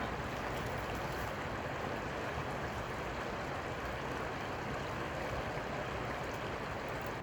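Steady rushing of flowing river water, an even hiss at a constant level.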